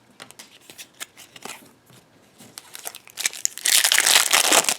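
A few light clicks and rustles, then about three seconds in a loud burst of crinkling and tearing as a foil Yu-Gi-Oh booster pack wrapper is ripped open.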